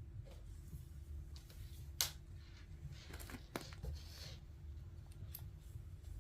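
Plastic Lego pieces being handled and pressed together: a few scattered sharp clicks, the loudest about two seconds in, with light rustling between them over a low steady hum.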